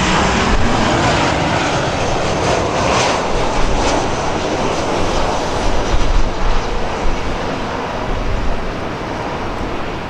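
Commercial airliner's engine noise, loud at first and slowly fading as the plane passes and moves away.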